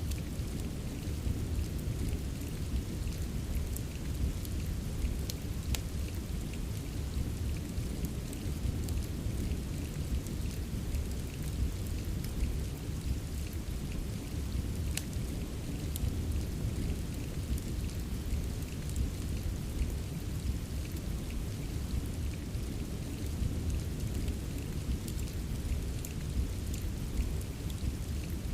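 Steady rain with a low, even rumble underneath, and a scattering of sharp crackles from a wood fire.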